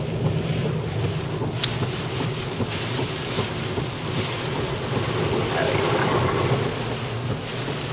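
Steady car cabin noise while driving: low engine and road rumble with the hiss of tyres on a wet road.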